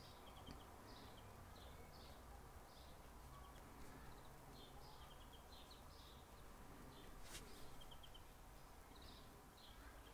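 Near silence with faint birdsong: short chirps and quick little trills repeating throughout, and a single click about seven seconds in.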